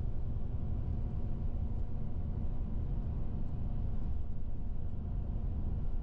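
Steady low rumble of a moving road vehicle heard from inside, engine and road noise with no marked change.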